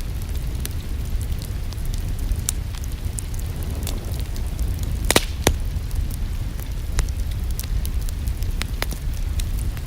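Wood fire in a fireplace crackling, with scattered sharp pops over a steady low rumble. The two loudest pops come about halfway through.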